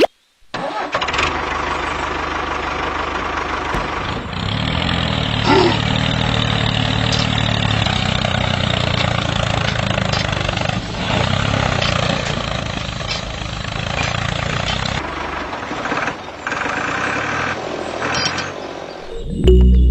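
The small motor of a homemade mini tractor running steadily, its pitch and loudness shifting now and then as it works, stopping near the end.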